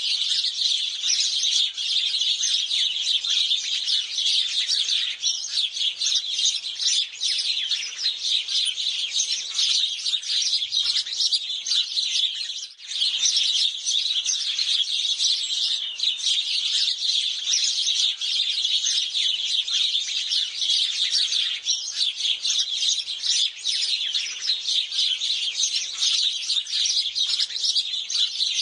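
A flock of house sparrows chirping nonstop, many birds calling over one another in a dense, shrill chatter, with a brief lull about halfway through.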